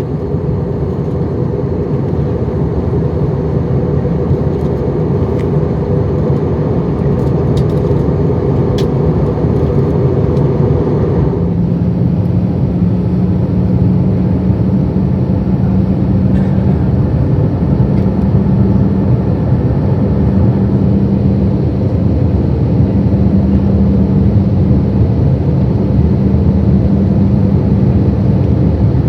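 Steady roar of engines and airflow inside an Airbus A320-200 cabin during descent. About eleven seconds in, the hiss drops suddenly and a low, steady hum comes in and out for the rest of the time.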